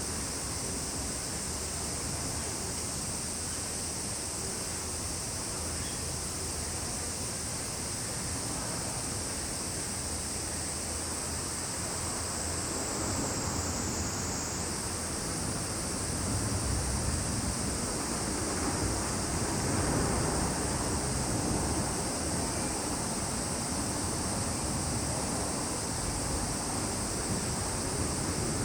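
A steady, high-pitched drone of summer insects such as cicadas, unbroken except for a brief dip in pitch about halfway through. A low rushing noise runs underneath and swells in the second half.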